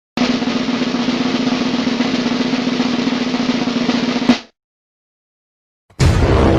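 Snare drum roll lasting about four seconds, ending on a single accent hit, the drum-roll sound effect. A new loud sound begins just before the end.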